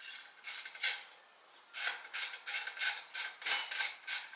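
Hand tool working the fasteners of a motorcycle's exhaust-servo heat shield, making short scraping metallic strokes. There are a few strokes at first, a short pause, then a steady run of about three strokes a second.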